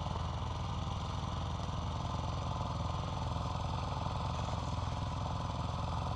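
Dirt bike engine idling steadily, an even run of fast low firing pulses.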